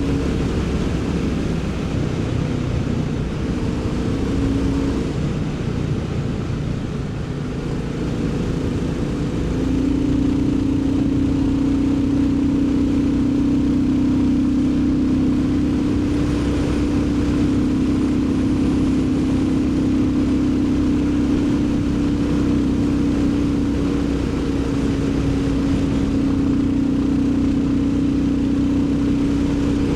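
Royal Enfield Bullet 350's single-cylinder four-stroke engine running on the move. Its note shifts pitch through the first several seconds as road speed changes, then holds steady for the rest as the bike cruises.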